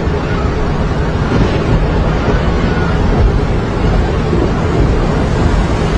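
Heavy rain in a storm: a loud, steady rushing noise with a deep rumble of wind buffeting the microphone.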